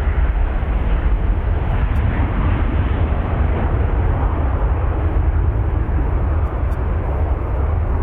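Jet airliner engines running, a loud, steady rumble.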